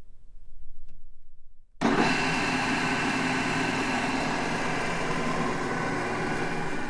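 Large drill press starting abruptly about two seconds in after a brief lull, then running steadily with a dense mechanical whir and a steady motor hum.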